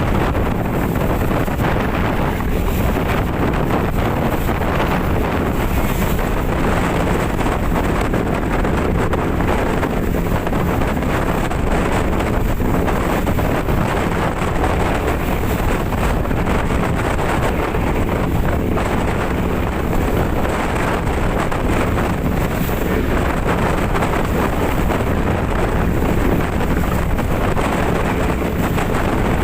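Strong wind buffeting the microphone on a boat at sea, with the boat's engine running steadily underneath as one continuous rumble.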